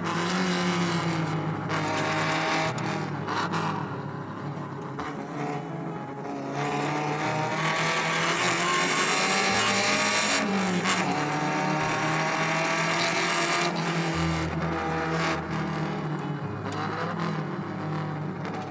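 Rebuilt Alfa Romeo Spider 1750 Veloce twin-cam four-cylinder engine accelerating. Its pitch climbs with the revs and drops back at each of several gear changes.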